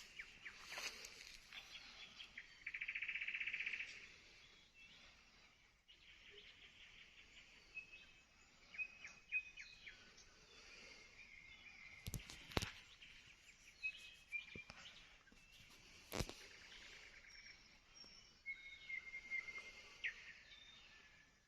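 Songbirds singing faintly. A loud, rapid trill comes about three seconds in, followed by scattered whistled notes and short phrases, and a few sharp clicks stand out past the middle.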